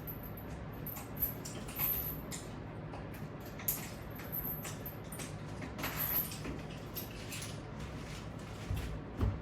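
Scattered light clicks and creaks, irregular and of varying strength, over a faint steady low hum.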